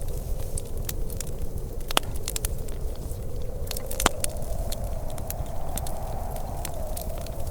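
Wood fire crackling, with many small snaps and two sharper pops about two and four seconds in, over a steady low rumble.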